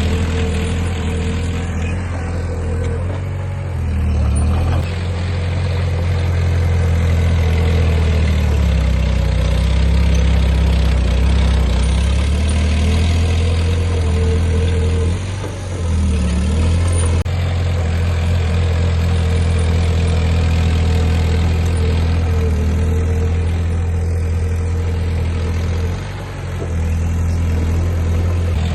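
Heavy diesel engine of earthmoving machinery running steadily under load, with a strong low hum and brief dips in level about halfway through and near the end.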